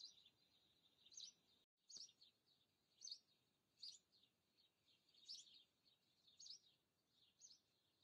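Faint bird chirps: short, high calls repeating roughly once a second over a light outdoor hiss.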